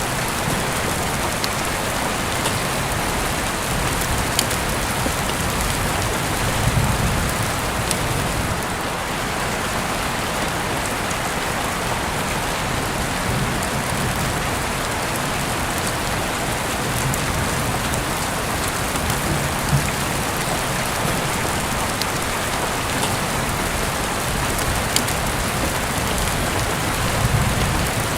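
Steady rain falling, an even hiss with a few sharp clicks scattered through it. A low rumble swells briefly about seven seconds in and again near the end.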